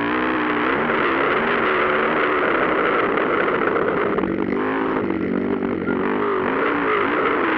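Motocross dirt-bike engines revving up and down as the bikes race, the engine pitch rising and falling over and over.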